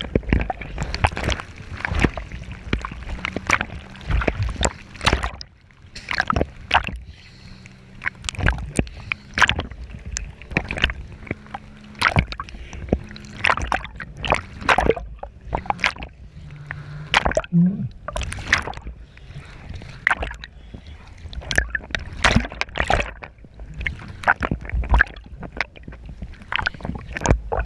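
Water splashing and slapping in quick irregular hits, with the low hum of a Yamaha WaveRunner XL 1200 jet ski engine under it for much of the first half.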